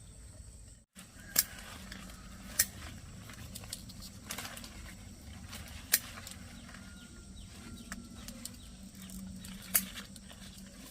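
Four sharp snaps or clicks at uneven intervals over a faint outdoor background, after a brief cut-out in the sound just under a second in.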